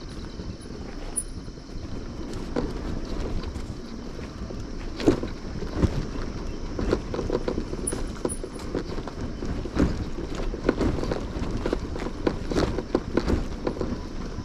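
Motorcycle running on the move, a steady low rumble with frequent irregular knocks and rattles.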